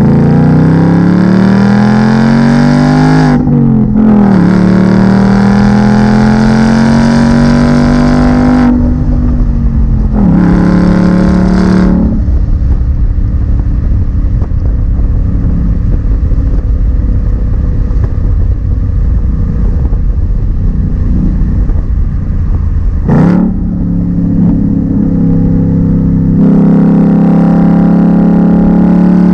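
2019 Ford Mustang GT's 5.0-litre V8 through its stock exhaust, accelerating. The engine note climbs, drops at an upshift about three and a half seconds in, climbs again, then settles into a steady cruise. There is another brief change about two-thirds of the way through, and a stronger steady note near the end.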